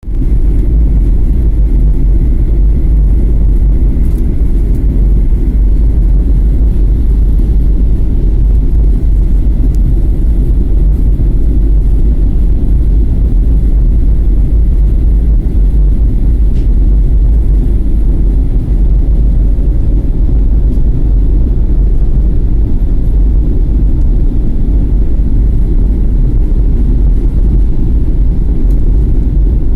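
Lion Air airliner giving a loud, steady, deep rumble that holds at one level throughout.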